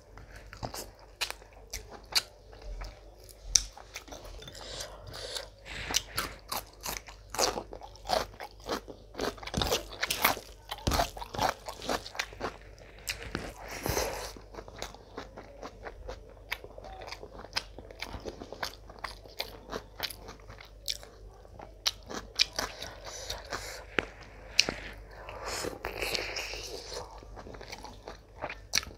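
Close-miked eating sounds: a person chewing handfuls of spiced mutton tehari rice and mutton, with frequent sharp clicks from the mouth throughout.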